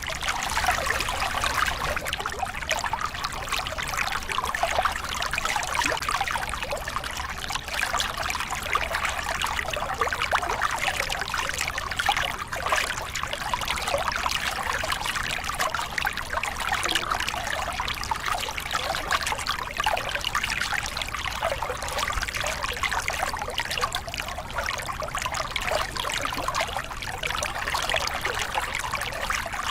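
Small cascade on a river: water splashing and spilling over rocks, a steady dense trickle and gurgle with no let-up.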